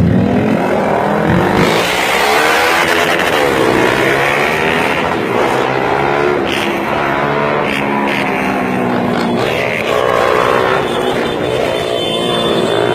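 Several sport motorcycle engines revving at once, their pitch rising and falling again and again through open exhausts.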